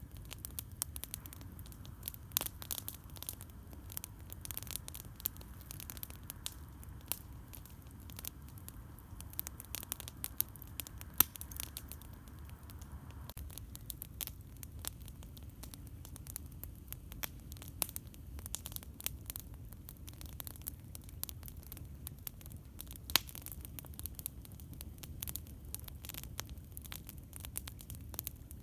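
Campfire crackling: a steady scatter of small pops and snaps with a few louder pops, over a low steady rumble. A faint hiss stops about halfway through.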